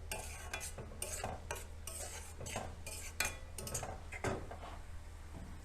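Masala and yogurt being stirred and fried in a kadai: irregular scrapes and clinks of the stirring utensil against the pan, a few strokes a second.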